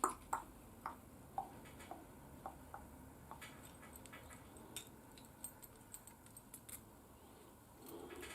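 Faint, light clicks and taps of small mounting parts being handled and fitted, with several close together in the first two seconds and sparser ones after.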